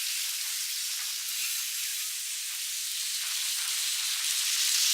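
Heavy rain falling: a steady, even hiss that grows a little louder near the end.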